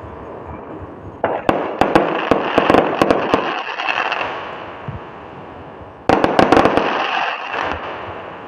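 Fireworks crackling in two bursts, one starting about a second in and one about six seconds in. Each is a rapid run of sharp pops over a hiss that fades away over two to three seconds.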